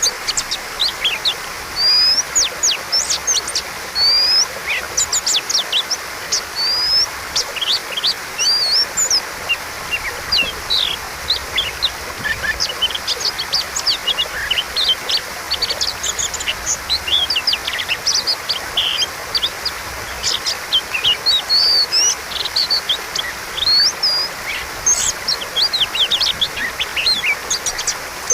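Oriental magpie-robin (kacer) singing without pause: a fast, varied run of whistles, chirps and sweeping notes, including mimicked phrases of other birds, over a steady background hiss.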